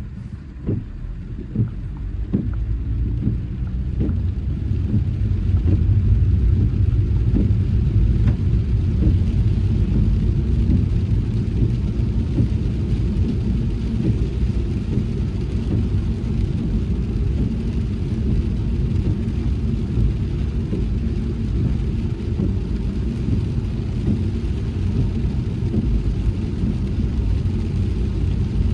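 Car driving in the rain, heard from inside: a steady low rumble of road and tyre noise that swells over the first several seconds as the car gets going, then holds. A few short taps sound in the first few seconds.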